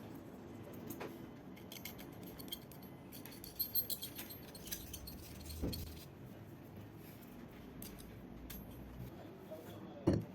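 Light metallic clinks and rattles of small metal tools or parts being handled, clustered a few seconds in. There is a dull knock about halfway through and a sharper, louder knock near the end.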